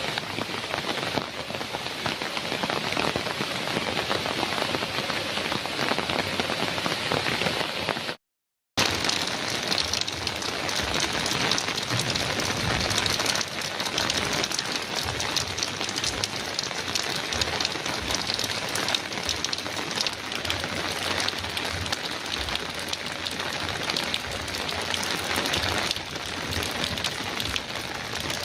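Heavy rain drumming on a metal roof, a dense steady patter of drops. About eight seconds in the sound drops out to dead silence for half a second, then resumes.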